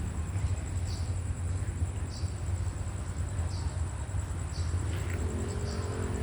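Night-time outdoor ambience of insects: a steady high pulsing trill with short chirps about once a second, over a low steady rumble.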